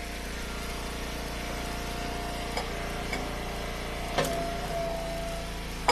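Eastonmade Ultra wood splitter's engine running steadily, with a few short sharp knocks as wood is split, the loudest about four seconds in.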